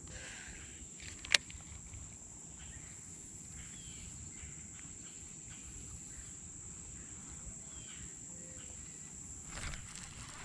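Quiet outdoor ambience with a steady high-pitched insect buzz, and a single sharp click about a second and a half in.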